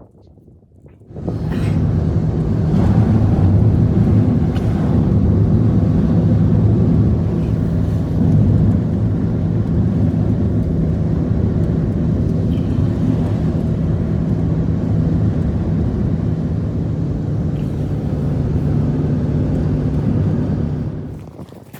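A motor engine running steadily, with a constant low drone. It starts abruptly about a second in and drops away near the end.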